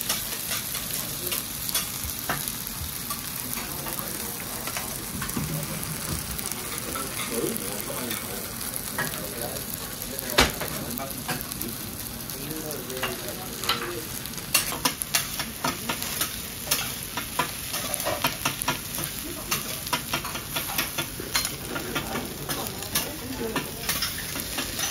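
Yakisoba noodles with cabbage and beef sizzling steadily on a teppanyaki griddle. Sharp pops and ticks are scattered through the hiss, with one loud tick about ten seconds in, and they come much more often in the second half.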